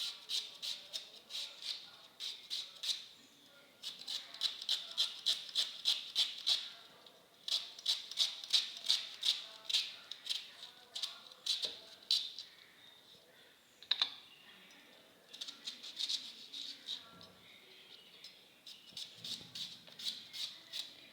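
Knife slicing through an onion held in the hand, with no cutting board: runs of crisp cuts about five a second, in bursts with short pauses between them.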